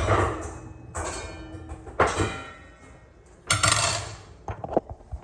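Metal kitchenware clanking: four knocks about a second apart, each ringing briefly, then a few lighter knocks near the end.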